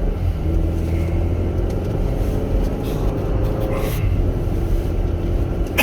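Chevrolet Captiva being driven, heard from inside the cabin: a steady low rumble of engine and road noise, with a faint engine tone rising slightly in pitch partway through.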